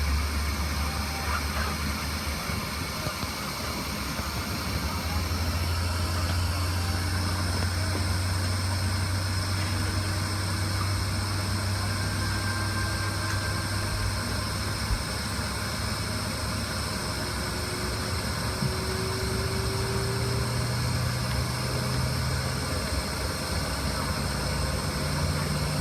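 Steady low drone of an Embraer ERJ-145 regional jet's machinery heard inside the cabin on the ground, with a faint hiss of air. A low tone slowly rises in pitch over the last few seconds.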